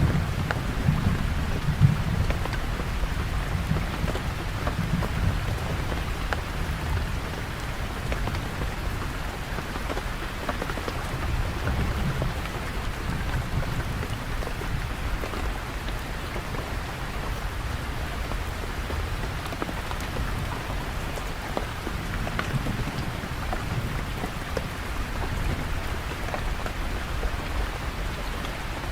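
Steady rain falling, a continuous hiss with scattered drop taps, over a low rumble that is strongest in the first couple of seconds and then eases off.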